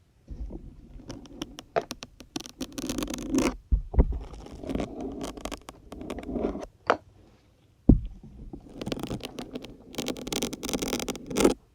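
Syringes being pulled out of a stiff, dense grey sponge one after another, each pull a squeaky, scraping rub of the syringe against the foam. A few sharp clicks fall between the pulls.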